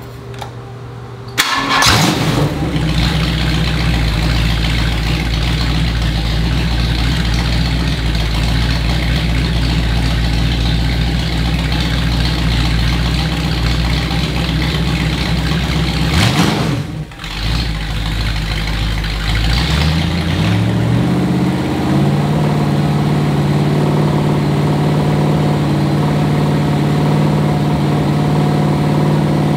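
1970 AMC 390 V8 on an engine run stand fires up about a second and a half in and runs steadily, then briefly dips about 17 s in. Around 20 s in it is brought up to a higher speed and held there, the steady fast running of a camshaft break-in.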